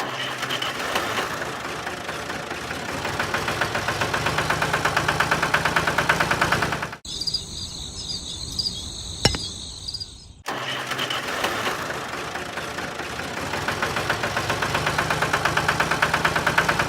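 Small engine of a miniature DIY tractor running with a rapid, even chugging. It is broken for about three seconds in the middle by a different sound with a high steady tone and a single click, then the chugging resumes.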